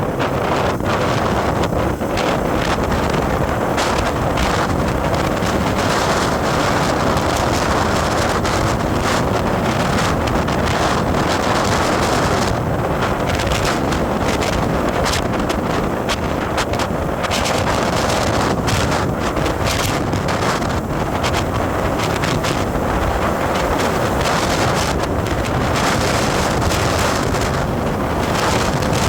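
Steady rush of wind buffeting the microphone on a moving vehicle, with road and vehicle noise underneath.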